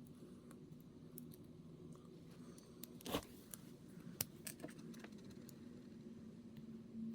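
Faint clicks and light scraping of small plastic model-kit parts being handled and fitted together, with a sharper click about three seconds in and another about a second later, over a steady low hum.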